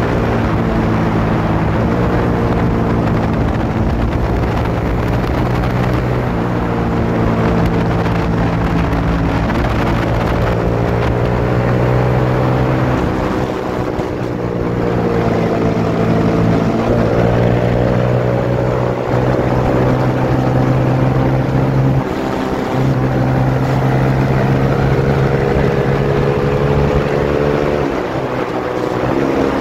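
Suzuki GSX-S150's single-cylinder engine running at highway speed under the rider. Its note rises and falls with the throttle, with a few sudden steps in pitch.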